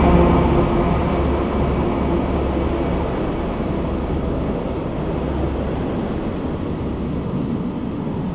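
A passenger train rolling past along a station platform: a steady low rumble with wheel and rail noise that slowly fades, its low engine tones dying away about halfway through.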